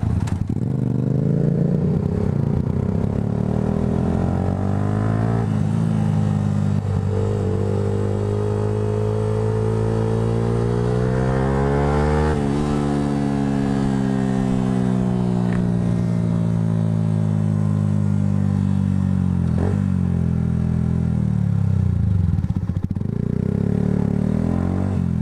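Motorcycle engine heard from the rider's position, holding steady, then revving up with its pitch climbing for several seconds and easing off with the pitch falling slowly as the bike slows.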